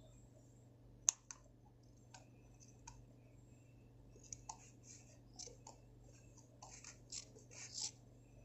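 Faint clicks and short scratchy rustles from small hand work on a Zippo-style lighter insert and its cotton packing. There is a sharp click about a second in, and a quick run of rustling scrapes near the end.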